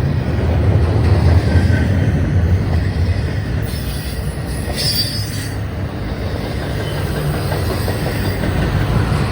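Norfolk Southern freight train rolling past: a steady, loud rumble of steel wheels on rail, with a brief high-pitched wheel squeal about five seconds in.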